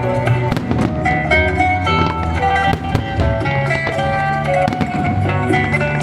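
Music with a plucked-string melody, with fireworks bursting several times over it.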